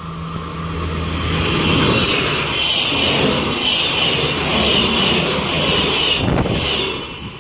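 Two coupled Alstom Coradia LINT diesel multiple units (a LINT 81 and a LINT 54) passing close by: engines and wheels on the rails grow louder over the first two seconds, hold as a steady rush while the cars go past, and drop away near the end.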